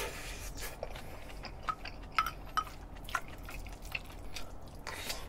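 A person chewing a spoonful of sauced rice close to the microphone, with wet mouth sounds and a handful of short sharp clicks between about one and a half and three and a half seconds in. Near the end a wooden spoon scoops in a ceramic bowl.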